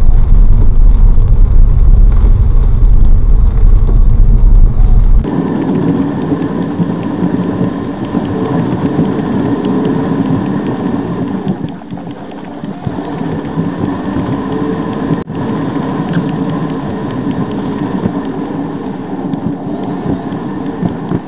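Vehicle and heavy-rain noise, heard as a car travels through a downpour. A very loud low rumble gives way abruptly, about five seconds in, to a steadier hiss and hum.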